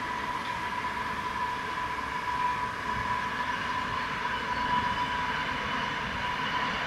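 Electric passenger train running past at a distance across a river: a steady rolling noise with a steady high whine over it.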